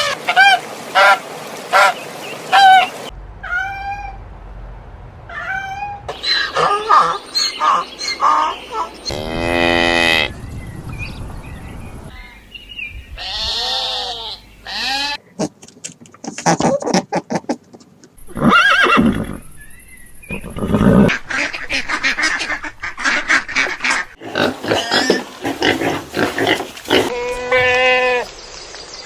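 A run of different animal calls, one short clip after another, each cutting off abruptly as the next begins.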